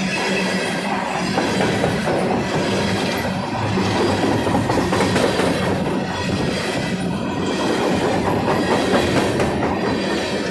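Empty coal train's hopper cars rolling past, a steady rumble and rattle with the clicks of wheels over rail joints.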